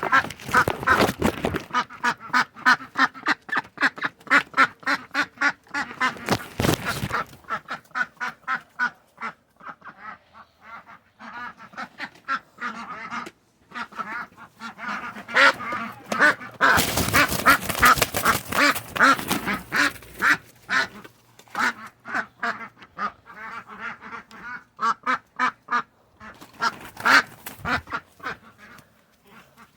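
Domestic ducks quacking rapidly and almost without a break, several short calls a second, with a few louder noisy bursts among them.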